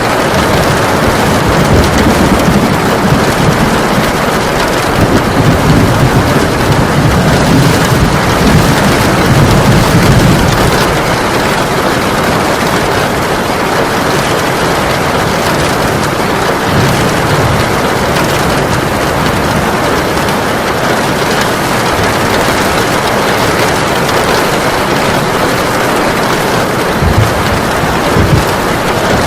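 Heavy rain falling steadily, with a low rumble of thunder swelling through roughly the first ten seconds.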